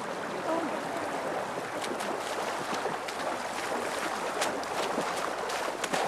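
River water splashing and flowing, with scattered short splashes.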